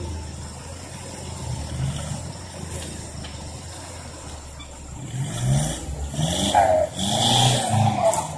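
A pickup truck's engine idles steadily, then from about five seconds in it is revved up and down several times in quick succession.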